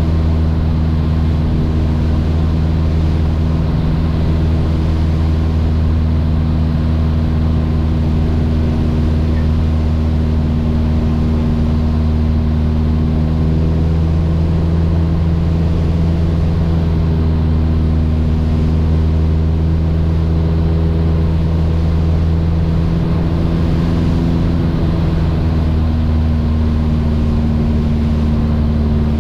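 Mooney M20J's four-cylinder Lycoming engine and propeller running steadily, a constant drone whose upper tones shift slightly about halfway through and again near the end.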